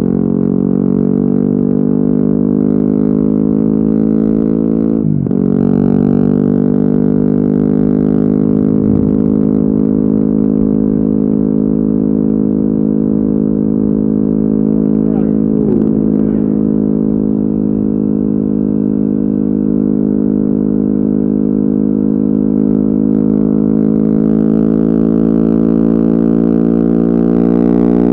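Yamaha WR250R's single-cylinder four-stroke engine, fitted with an FMF Q4 exhaust, running under way at fairly steady revs. Its pitch dips briefly about five seconds in and again around fifteen seconds, then climbs near the end.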